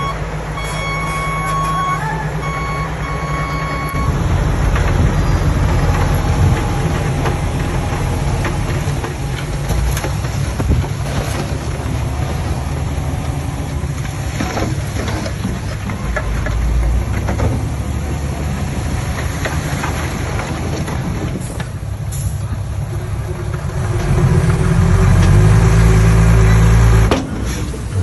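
A dump truck's reversing alarm beeps in a steady on-off pattern for the first few seconds. Then heavy diesel earthmoving engines run under load, from the dump trucks and a Komatsu D20P bulldozer. They swell louder near the end and drop off sharply just before it.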